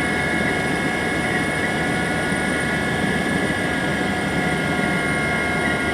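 Helicopter in flight heard from inside the cabin: a steady, dense rotor and engine noise with several constant high whining tones over it.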